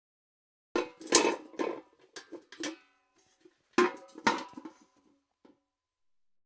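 Metal bucket clanking and rattling: a burst of several knocks with a metallic ring about a second in, then a second, shorter burst near the four-second mark and one faint tick after it.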